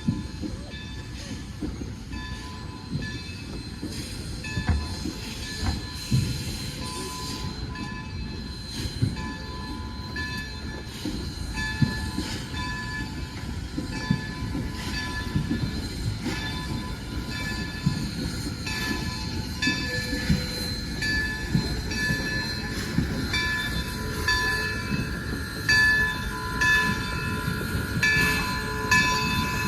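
Excursion train led by locomotive No. 26 rolling by, its wheels clicking rhythmically over rail joints, with high steady tones from the running gear that come and go and grow stronger toward the end.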